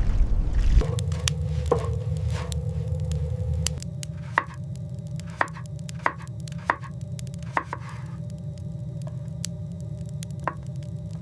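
A series of sharp, irregularly spaced knocks, about ten of them, over a steady low hum.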